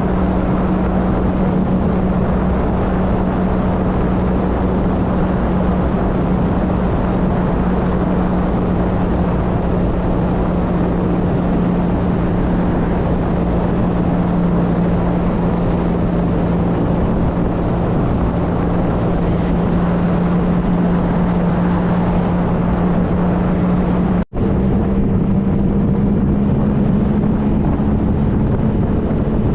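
A 2013 Triumph Trophy SE's three-cylinder engine running at steady cruising speed, its even engine note mixed with heavy wind and road rush on the microphone. The sound cuts out for an instant about 24 seconds in and comes back with the engine note slightly higher.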